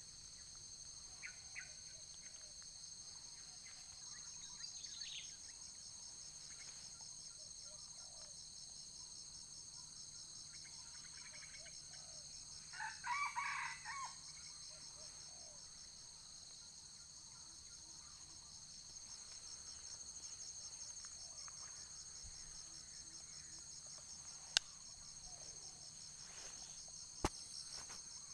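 A rooster crowing once, about halfway through, faint, over a steady high pulsing trill of insects. Two sharp clicks near the end.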